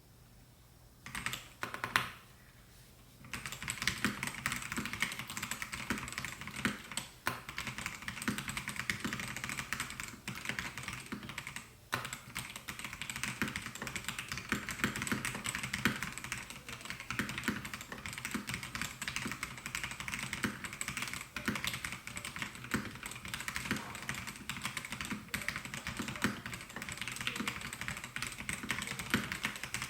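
Melgeek Mojo68 mechanical keyboard with white switches being typed on: a few single keystrokes about a second in, then continuous fast typing from about three seconds in.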